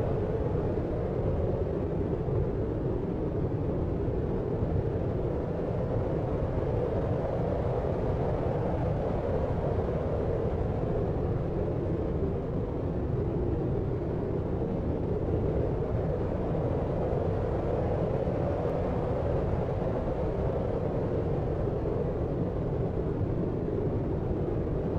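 Deep, steady noise of the brown-noise kind used as a sleep sound: an even low rumble with no hiss on top, swelling and easing only slightly.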